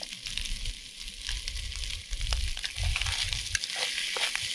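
Corned beef hash sizzling steadily as it fries in a Trangia pan over a gas burner. From about a second in, a wooden spoon scrapes and knocks against the pan as the hash is stirred, with intermittent low rumbles underneath.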